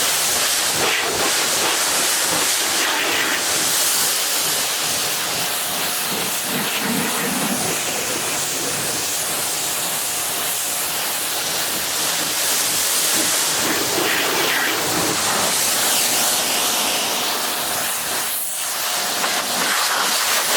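Water spraying from a garden hose nozzle onto a truck's painted metal body, a steady loud hiss that shifts a little as the spray moves across the surface.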